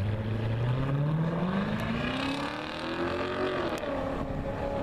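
A car engine accelerating hard: its pitch climbs steadily for about three and a half seconds, drops sharply at an upshift, then holds lower.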